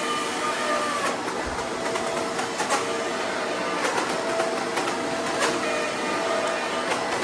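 Shark Powered Lift-Away DuoClean vacuum running over carpet, a steady motor sound with a couple of held tones and scattered clicks. It carries the grinding of its front roller brush, which the owner blames for the noise.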